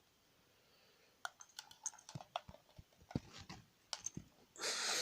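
Hard plastic airsoft gas mask being handled: scattered light clicks and taps, then a brief rustling hiss near the end.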